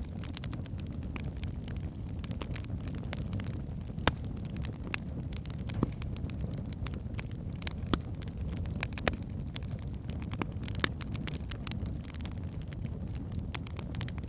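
Logs burning in a fireplace: a steady low rumble of the flames with constant scattered crackling and several sharper pops spread through.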